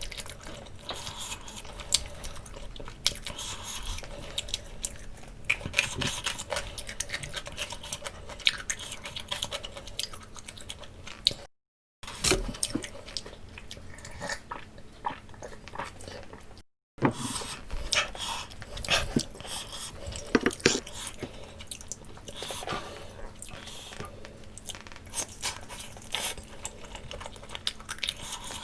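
Close-miked eating: wet chewing with sharp crackly bites into grilled Jamaican jerk chicken leg, irregular and continuous. It is interrupted twice by brief cuts to dead silence.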